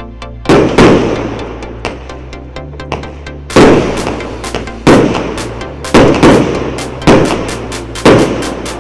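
A 100-shot, 1.2-inch consumer fireworks cake firing, with loud sharp bangs: two in quick succession about half a second in, then one roughly every second from about three and a half seconds. Electronic dance music plays underneath.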